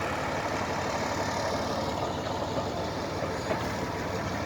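A large engine idling steadily, with an even, fast low pulse.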